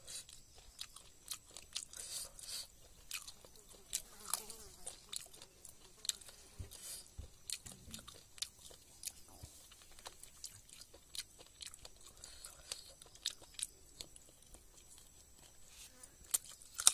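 Close-up chewing and biting as a man eats a piece of chicken by hand, with irregular mouth clicks and smacks.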